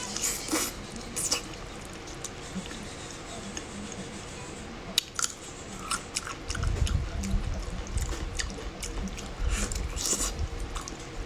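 Close-up mouth sounds of biting, tearing and chewing soft braised meat: wet smacks and sticky clicks, with low thuds and rumble in the second half.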